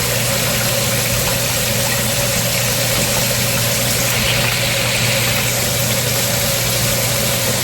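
A steady motor hum with an even hiss over it, unchanging.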